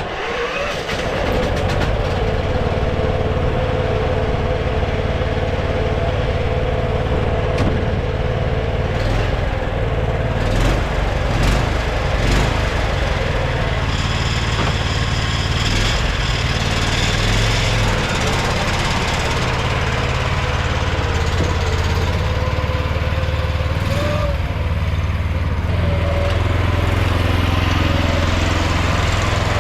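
Dzik 2 mini tractor's engine coming up to speed in the first second after being started with the starter, then running steadily at a constant speed.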